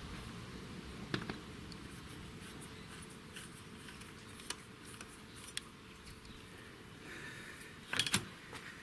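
Faint scattered clicks and light metallic taps of hand work on the motorcycle's clutch cable, with a couple of sharper knocks about a second in and near the end; the engine is not running. The cable is being tightened because the clutch drags.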